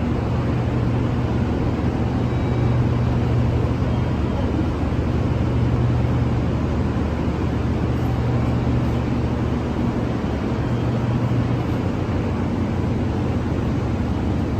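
Train running, a steady loud rumble with a low hum.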